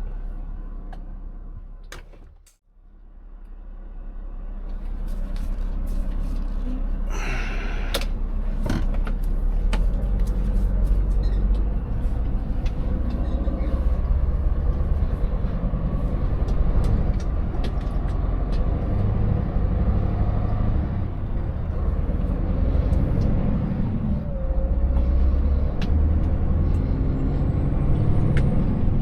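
Scania 590S truck's 16-litre V8 running under way, with scattered knocks and rattles from the truck on a rough, broken road. The sound fades almost to nothing and back in early on, and a short hiss of air from the air brakes comes about seven seconds in.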